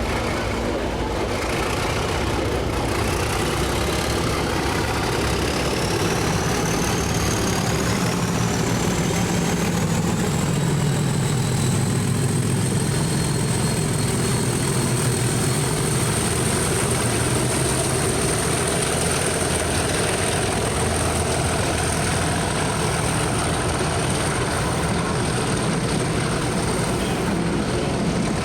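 Diesel locomotive engine running steadily at rest, with a high whine that rises in pitch over the first ten seconds or so and then holds steady.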